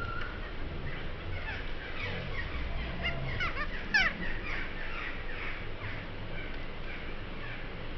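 Birds calling: a dense run of short chirps and quick downward-sweeping calls, busiest in the middle, with one louder call about four seconds in, over a low steady rumble.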